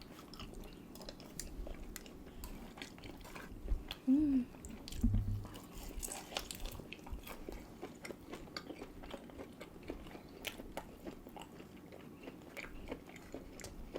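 People chewing and biting food while eating a meal, with many small wet clicks and smacks scattered throughout and a brief closed-mouth hum about four seconds in.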